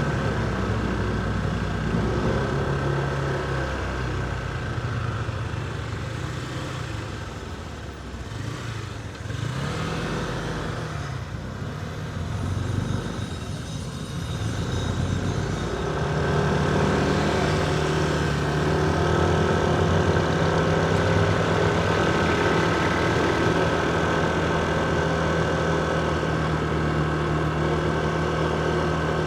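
Motorcycle engine running as the bike rides through city streets; its note wavers and eases off through the middle, then holds a steady pitch for the second half.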